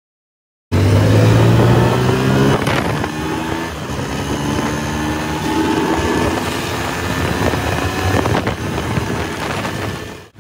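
Motorcycle engine running under way, cutting in abruptly about a second in. Its pitch drifts up and down slightly with the throttle.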